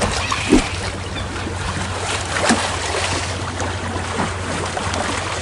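Running water with a steady low hum and a few short knocks, the strongest about half a second in.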